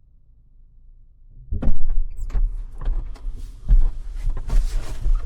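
A run of knocks, clunks and rustling, beginning about a second and a half in over a low rumble: someone getting back into a vehicle and handling things inside the cab.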